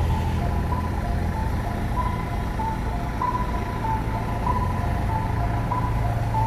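A motor vehicle's engine running steadily, with a repeating electronic two-note beeping melody over it, like a vehicle's warning or reversing alarm.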